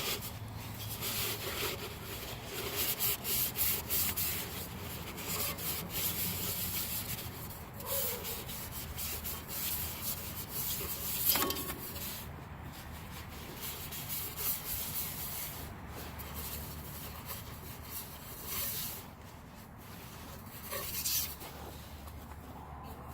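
Hand cleaning of a snowplow's hydraulic unit parts: irregular rubbing and scrubbing strokes, one after another, with a brief quieter pause near the end.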